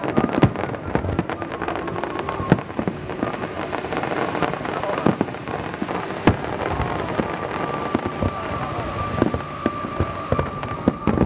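Aerial fireworks display: shells bursting in rapid, irregular bangs over a continuous crackling rumble. A steady high tone joins about seven seconds in.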